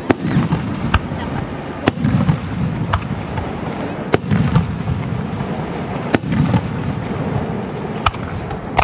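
Aerial firework shells bursting: a sharp bang every second or two, about eight in all, several followed by a low rolling rumble.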